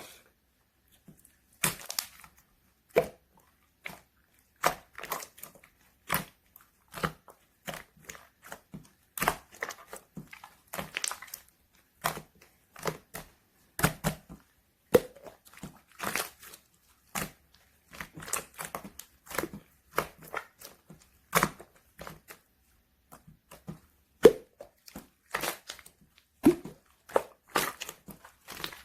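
Clear purple slime worked by hand, giving irregular sticky clicks and pops as it is pressed and pulled apart.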